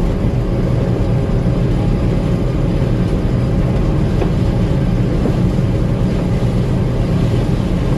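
Gleaner M2 combine running steadily while harvesting corn: an unbroken low engine and machinery drone.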